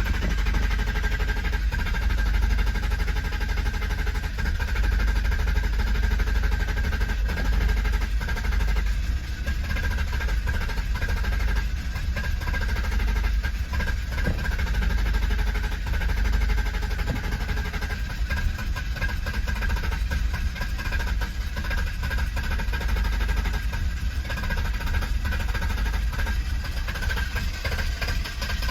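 BMW E32 730i's engine running steadily at idle, a continuous low rumble with a faint steady high whine over it.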